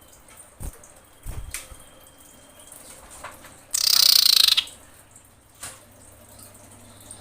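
Common iora calling: one harsh, fast-pulsing buzzy trill lasting about a second, a little past the middle. A faint thin steady whistle comes before it, and two dull low thumps fall in the first second and a half.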